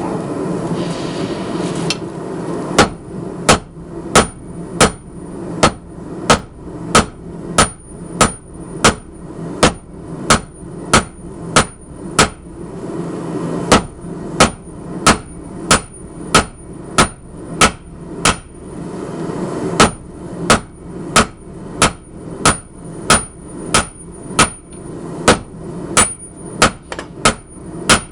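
Heavy hand hammer striking a hot 52100 steel ball bearing on an anvil to square it off: a long run of sharp blows, about one and a half a second, each with a high ring from the anvil, pausing briefly twice. A steady low rush from the running forge sits underneath and is heard alone for the first few seconds.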